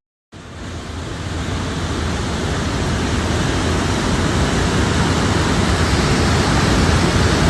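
Heavy rain pouring, a dense steady rushing noise that grows gradually louder, starting just after a brief break at the very beginning.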